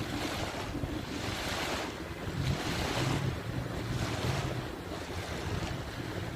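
Waves breaking on a beach, the surf swelling and easing every second or two, with wind buffeting the microphone. A low steady hum runs underneath.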